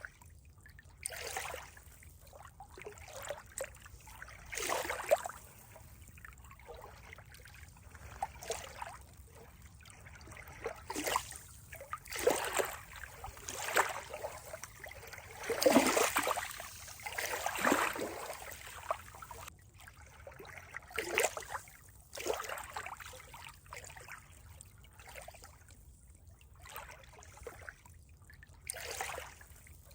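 Water trickling and gurgling in uneven spurts, some louder than others.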